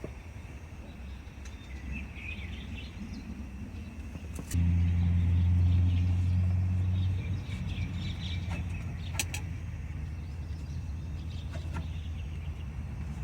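Birds chirping and singing. About four and a half seconds in, a click is followed by a sudden, steady low rumble that is loudest for a few seconds and then settles to a lower level.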